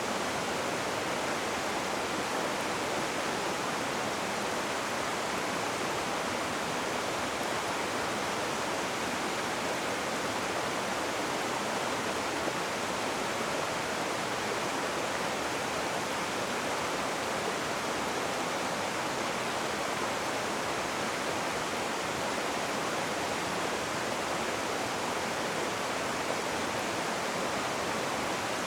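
Rushing river water: a steady, even rush with no breaks or changes.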